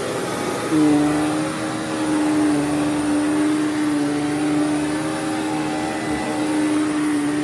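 Hoover WindTunnel WidePath upright vacuum cleaner running on carpet: a steady motor hum at one pitch with overtones, the brush roller turning smoothly on a freshly replaced bearing, and a brief rough scuffing noise just under a second in.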